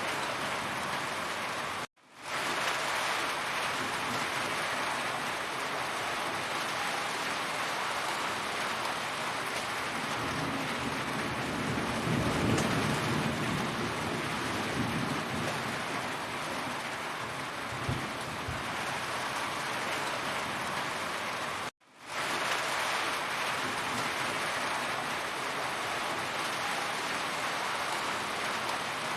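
Heavy rain falling steadily, with a low rumble of thunder from about ten to sixteen seconds in. The sound cuts to silence for an instant twice, about two seconds in and about twenty-two seconds in, and fades back up each time.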